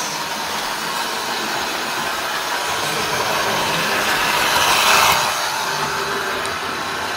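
Model train running on its track, a steady whirring rattle of the small motor and wheels that swells briefly about five seconds in.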